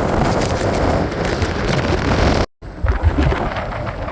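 Strong wind buffeting the microphone: a loud, rushing rumble with crackle. It cuts out abruptly for a moment about halfway through, then carries on slightly quieter.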